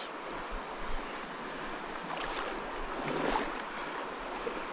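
Small mountain creek running: a steady rush of flowing water.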